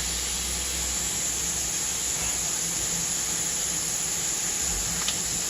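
Kitchen faucet running steadily into the sink and draining away: an even hiss, with a faint click near the end.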